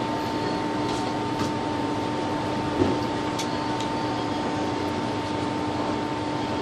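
Steady machine hum and hiss, like a running fan or appliance, with two constant tones, and a few faint light clicks over it.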